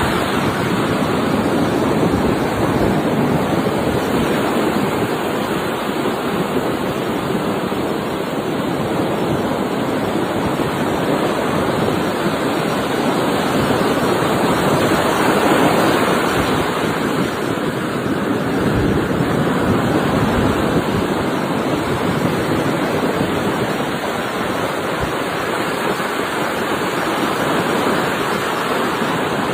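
Steady wash of surf breaking on a beach, swelling and easing slowly.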